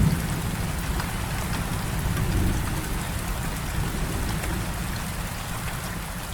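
Heavy rain falling steadily, with a low rumble of distant thunder underneath that slowly dies away.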